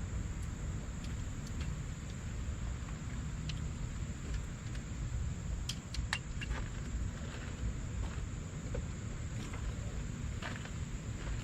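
Insects, likely crickets, droning steadily at one high pitch over a low, constant rumble, with scattered light clicks and rustles that get busier near the end.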